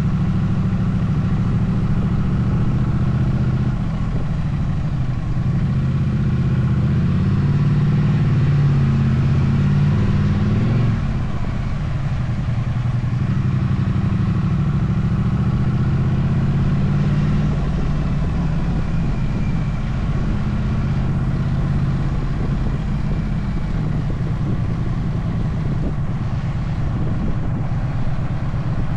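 Motorcycle engine running under way, heard from the bike, with a steady low engine note. The note and the level drop about eleven seconds in.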